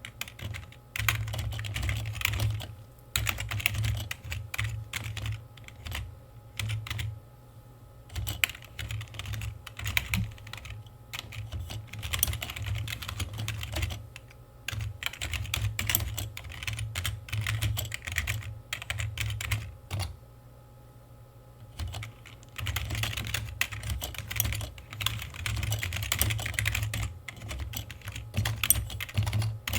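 Typing on a computer keyboard: quick runs of key clicks, broken by a few short pauses of a second or two.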